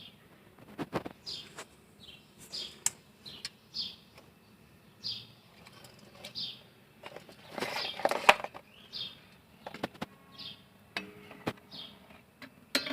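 Small birds chirping: short chirps falling in pitch, repeated every second or so. Scattered sharp clicks, and a louder rustling clatter about eight seconds in.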